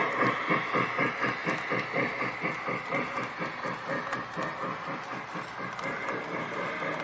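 Steam locomotive chuffing in a steady rhythm, about five chuffs a second over a constant steam hiss, growing slightly quieter towards the end.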